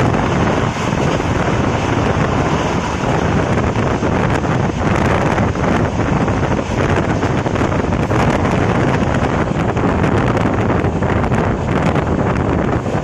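Passenger train running at speed: steady rumble of the coach on the rails with scattered clicks of the wheels over rail joints, under heavy wind buffeting the microphone.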